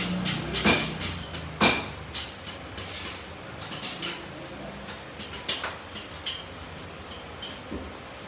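Metal tools and parts clinking and knocking against each other, several strikes ringing briefly; the hits come thick in the first two seconds, loudest near two seconds in, then grow sparse.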